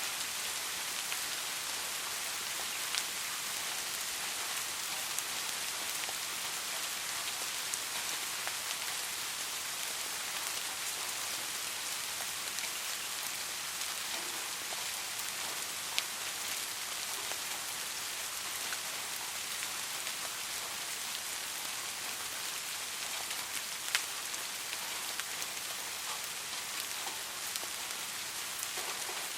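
Steady soft rain: an even hiss with scattered louder drop ticks, the clearest about 3, 16 and 24 seconds in.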